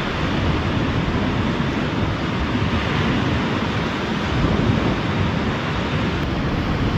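Steady, continuous wash of ocean surf.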